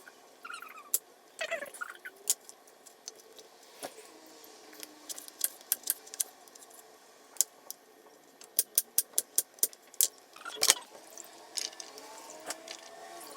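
Kitchen utensils clicking and tapping against dishes and cookware, with a quick run of about six taps a little past the middle and a few short scrapes.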